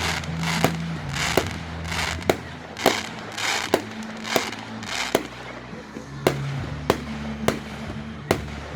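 Aerial fireworks going off in a rapid series, about a dozen sharp bangs less than a second apart, several followed by crackling. Music plays underneath.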